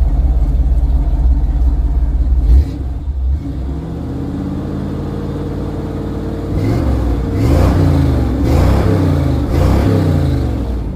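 A 1978 Chevy C10 pickup's engine running after sitting for years, just freshly fired up. It gives a low steady rumble at first, then speeds up, and in the second half is revved up and down about three times, roughly a second apart.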